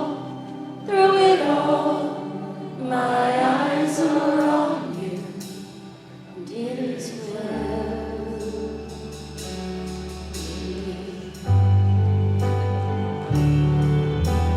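Live gospel worship music: singers holding sustained vowels over keyboard and bass, the voices fading about halfway through as held chords and deep bass notes carry on, with a louder bass entry near the end.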